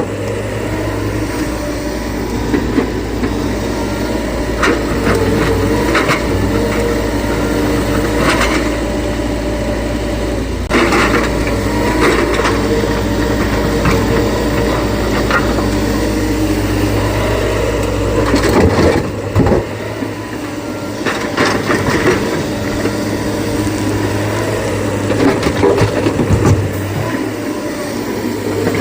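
A SANY excavator's diesel engine and hydraulics running steadily while it loads rock, with irregular crunches and knocks of stone and bucket. The deepest part of the engine hum drops away about two-thirds of the way through.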